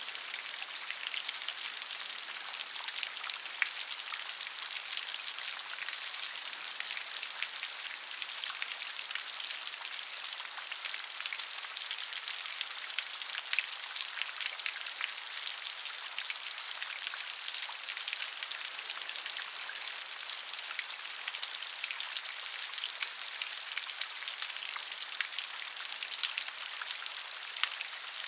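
Steady rain falling, with many distinct raindrop patters and ticks over a hiss that sits mostly in the high range.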